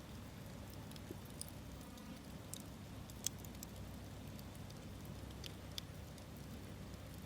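Campfire crackling: scattered sharp pops and snaps, the loudest about three seconds in, over a low steady rumble.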